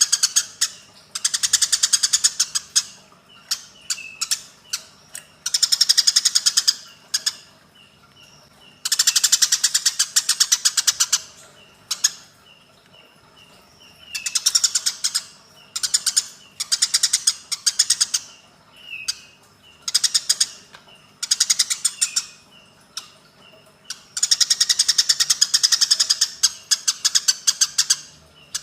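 White-rumped shama (murai batu) song: bursts of very rapid, high rattling trills about one to two seconds long, repeated many times. Short slurred notes and a thin high whistle come between the bursts. It is played as a training recording of the bird's mimicked fill-in phrases.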